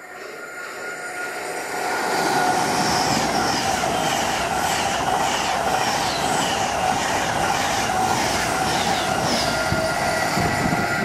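Class 390 Pendolino electric train passing close by at speed. The noise builds over the first two seconds into a steady rush of wheels on rail, with a regularly repeating clatter as the wheels pass.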